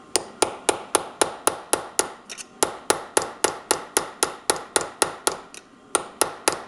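Small metal punch struck with a hammer in quick light taps, about four a second, with a brief pause near the end. The taps work around a screw whose head is worn flat, to shock it loose from its threads.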